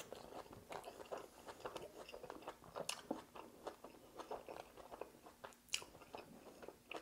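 Close-up eating sounds of a man biting into a buffalo chicken sandwich of toasted bread, fried chicken and coleslaw, then chewing. There is one louder bite right at the start, followed by many short, irregular clicks and crackles of chewing.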